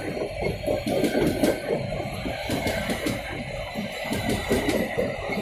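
Covered hopper cars of a long freight train rolling past, wheels clattering and knocking irregularly on the rails, with a faint steady high ring over the rumble.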